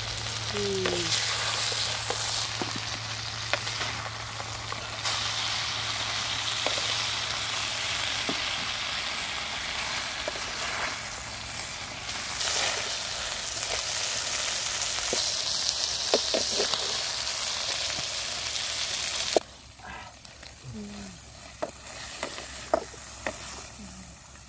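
Frogs and potato chunks frying in a steel wok over a wood fire, with a steady loud sizzling hiss. About 19 seconds in the sizzle drops off suddenly, leaving a quieter stretch with scattered clicks.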